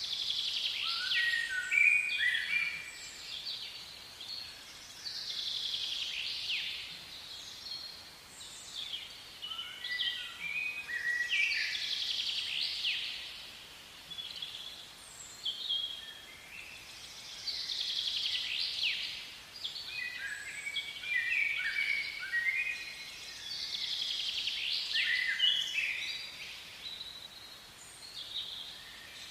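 Wild songbirds singing in the trees: bouts of quick, high chirps and whistled notes that come back every few seconds over a faint steady outdoor background.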